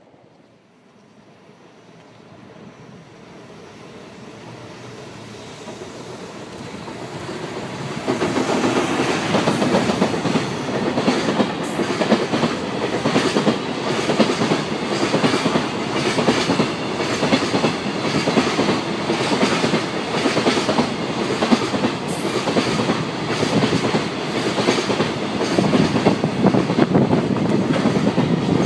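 A JR Freight EF210 electric locomotive hauling a long container freight train approaches, growing steadily louder, and comes abreast about eight seconds in. Then the container wagons run past at speed, their wheels clattering steadily over the rail joints.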